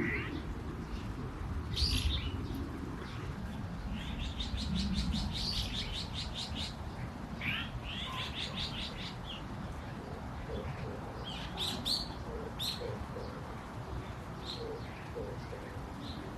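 Small songbirds chirping, with a fast rattling trill of rapidly repeated high notes a few seconds in and more sharp chirps later. A dove coos low and repeatedly in the second half, over a steady low background rumble.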